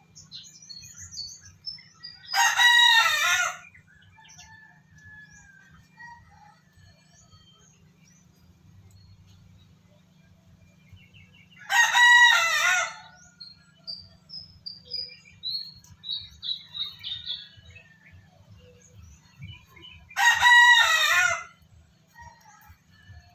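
An animal's loud drawn-out call, three times about nine seconds apart, each lasting about a second and falling in pitch at the end. Small birds chirp faintly in between.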